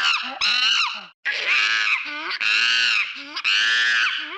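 Monkey screaming: a series of high-pitched screams, each about a second long, with short breaks between them.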